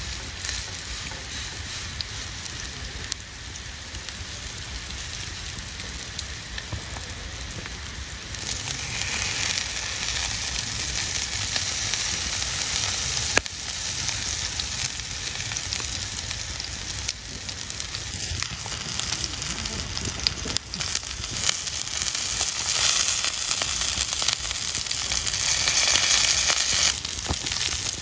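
Food sizzling in a hot frying pan over a campfire, a steady hiss with scattered small pops and clicks. It grows noticeably louder about eight seconds in.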